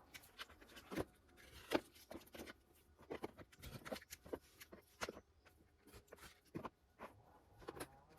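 Knife cutting a foil-backed vibration-damping sheet, with the sheet being handled: faint, irregular clicks and crinkles, a few sharper ones about a second in and just before two seconds.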